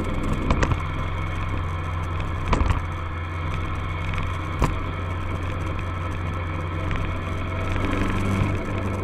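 Kawasaki ER-6f's parallel-twin engine running steadily at cruise, with wind rush. Three short knocks come about two seconds apart, and the engine note drops about eight and a half seconds in.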